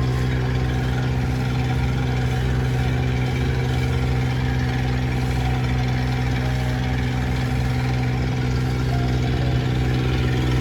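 Boat engine running at a steady pace, a constant drone with no change in speed.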